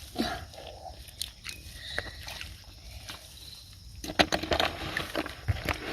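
Shallow water sloshing, with scattered small clicks and knocks that grow busier about four seconds in.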